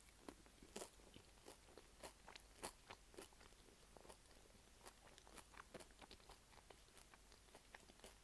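Flaky, crisp pie pastry crunching as it is bitten and chewed close to the microphone. Irregular soft crackles come every fraction of a second, with a few sharper crunches in the first few seconds.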